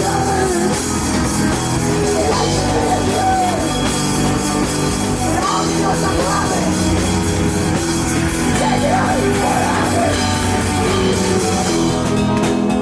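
Live rock band playing an instrumental passage: drum kit and electric guitars, with a melodic line bending up and down in pitch over the top.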